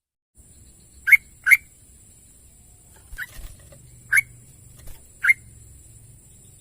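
Yellow-vented bulbul giving five short, sharp call notes: two in quick succession about a second in, then three more spaced about a second apart. A faint steady hum and a thin high hiss lie under them.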